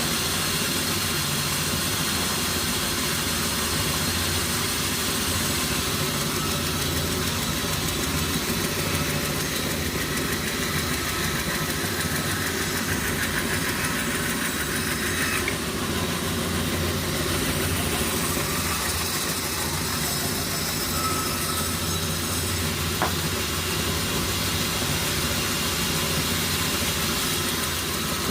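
Sawmill machinery engine running steadily, with a higher whine joining about ten seconds in and cutting off suddenly around the middle.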